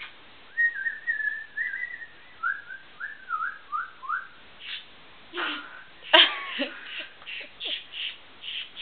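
Pet bird whistling a run of short upward-slurred notes that step lower in pitch, then giving scratchy chirps, with a sharp tap about six seconds in.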